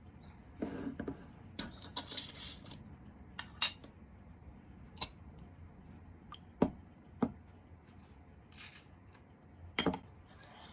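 Small hard objects being handled: scattered light clinks and taps, about a dozen over ten seconds, a few of them sharper.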